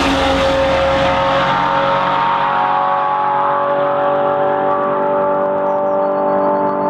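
Jaguar XJR-14's 3.5-litre V8 race engine at high revs. Its note drops in pitch right at the start as the car goes past, then holds a steady pitch while the treble fades as it pulls away.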